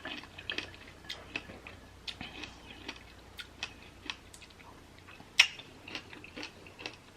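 Close-up chewing of fresh fruit — pomegranate seeds, blueberries and blackberries — with scattered small wet clicks and crunches, one sharper click about five seconds in.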